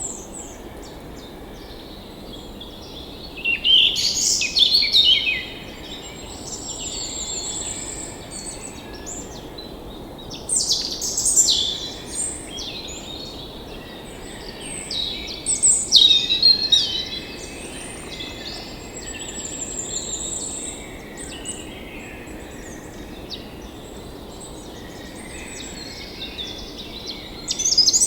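Wild songbirds singing in short phrases every few seconds, with thin high trills between them, over a soft steady background noise.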